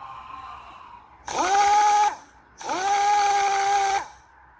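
Handheld electric power tool run in two short bursts, its motor whining up to speed quickly and holding steady each time before stopping.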